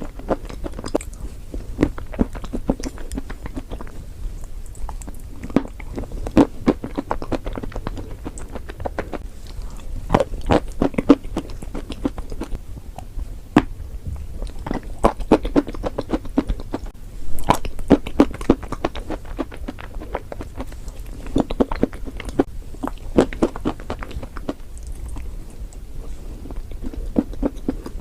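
Close-up crunching of dry chalk and clay as it is bitten and chewed: dense crisp cracks and crackles coming in clusters, with short lulls between bites.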